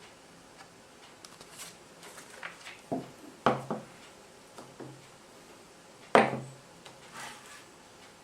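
A few sharp knocks and clatters of hard objects being handled, the loudest about three and a half seconds in and again about six seconds in, each ringing briefly.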